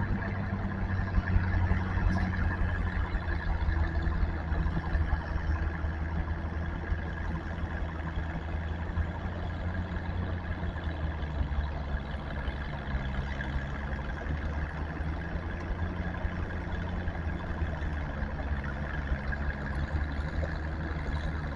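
An engine running steadily at a low, even idle, with no revving.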